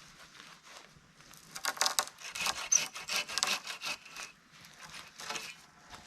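Hand saw cutting through wood: a run of quick back-and-forth strokes for a couple of seconds in the middle, with scattered scrapes and rubs of wood before and after.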